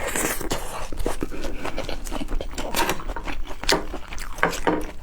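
Close-miked eating sounds: wet smacking and chewing, a quick irregular series of small clicks and smacks, as scallop is eaten.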